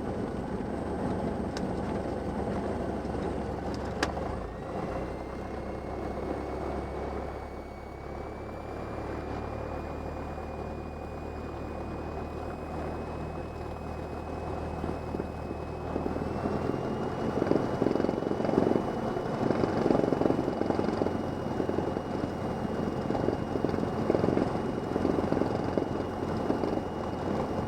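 Cessna 172M's four-cylinder Lycoming engine running at low power on the ground just after landing. A click comes about four seconds in, followed by a thin whine that slowly rises in pitch. About sixteen seconds in, the engine note changes and grows louder.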